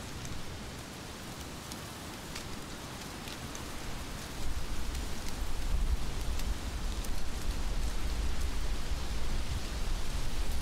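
Heavy rain falling steadily, with scattered individual drops ticking out of the hiss. About four seconds in, a low rumble joins and the whole sound gets louder.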